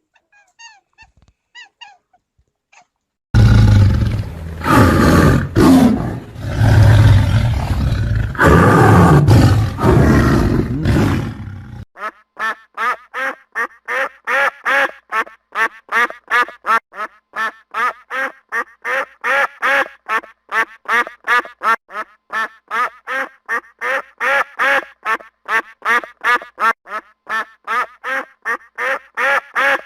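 A loud, harsh, rasping animal sound for about eight seconds, then ducks quacking in a fast, even series of about three to four quacks a second.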